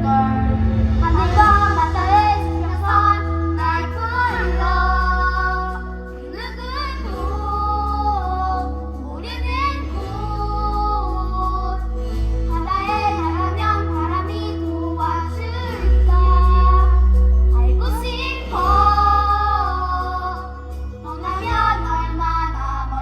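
A child singing a song over a backing track with steady bass notes: a solo number in a children's musical.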